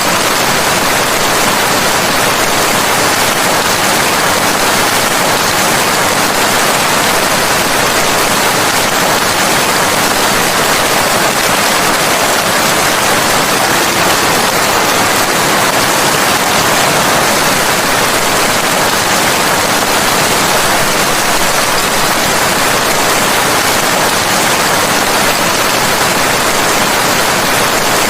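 Rain falling steadily: an even, unbroken hiss with no separate drops, no thunder and no change in level.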